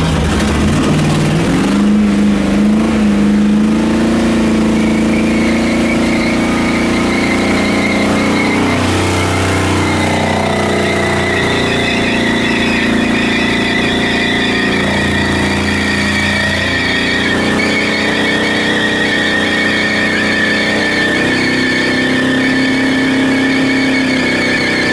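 Car engine running while driving, its pitch stepping up and down several times with throttle and gear changes.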